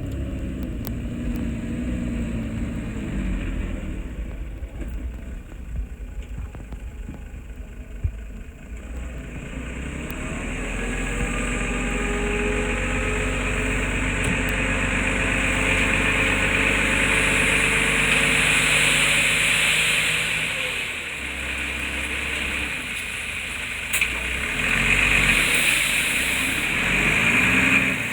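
Heavy-equipment diesel engine running. It speeds up and gets louder about ten seconds in, holds, eases back around twenty seconds, then picks up again near the end, with a few sharp clanks.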